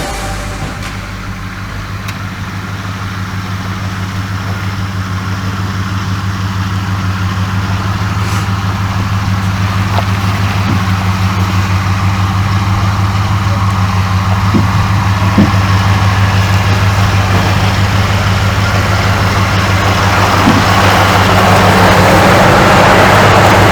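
A vehicle engine running at a steady speed, its low hum gradually getting louder, with a few faint knocks in the second half.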